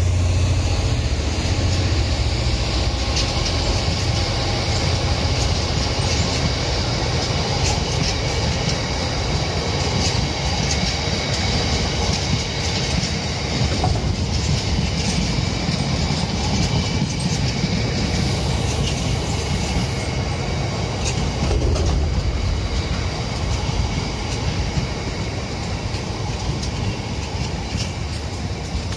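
Freight train of covered hopper wagons rolling past at steady speed: a constant heavy rumble of wheels on rail, with irregular clicks from the wheels over rail joints and a faint high-pitched wheel squeal.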